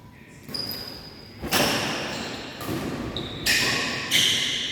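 Badminton rackets striking a shuttlecock in a rally, sharp cracks about once a second that echo in a large hall, with short high squeaks of shoes on the court between hits.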